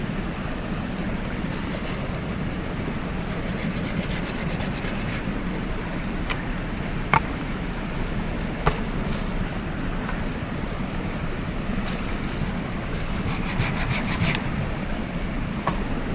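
Steady rush of a mountain stream. Over it come short runs of rapid rasping scrapes, three times, and a few sharp single snaps.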